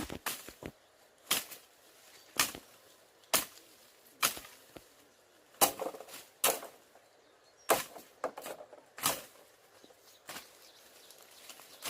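Steady, repeated blows of a hand tool striking material, about ten sharp strikes at roughly one a second, typical of chopping or hammering during building work.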